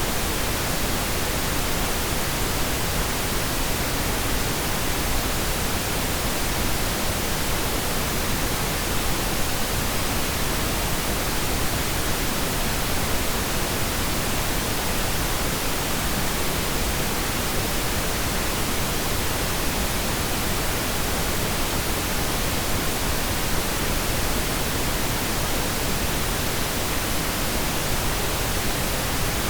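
Steady, unchanging pink noise: an even hiss with no breaks or separate events.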